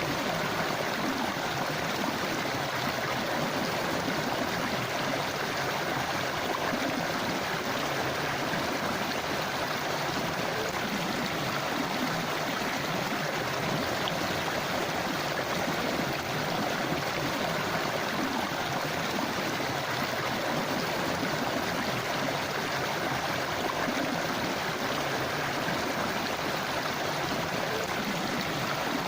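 Forest river running over rocks: a steady, even rush of flowing water with a gurgling texture.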